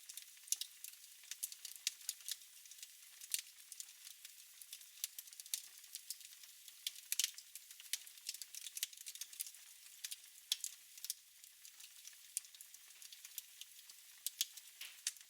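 Fire crackling in a fireplace: irregular sharp pops and clicks, several a second, over a soft hiss.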